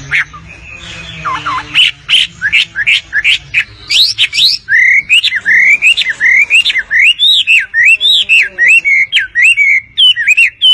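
A caged-bird wambi singing at full song, a rapid, loud run of whistled notes that sweep up and down in pitch, beginning about two seconds in and quickening into an unbroken string of phrases.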